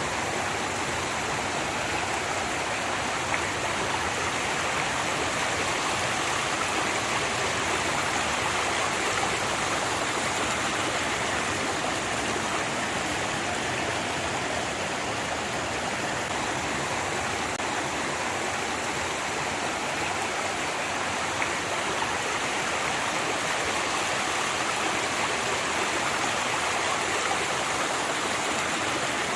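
Rainwater runoff rushing and flowing steadily like a stream, from heavy rain flooding across the ground.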